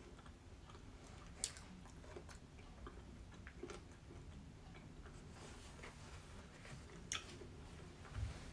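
Quiet chewing of a fried chicken wing, with a few scattered sharp clicks, the loudest about a second and a half in, and a low thump near the end.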